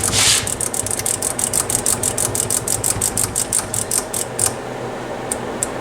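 A short hiss of contact-cleaner spray, then the Harman Kardon 330C receiver's rotary selector switch being turned rapidly back and forth through its detents, about seven or eight clicks a second, working the cleaner into dirty switch contacts. The clicking stops about four and a half seconds in.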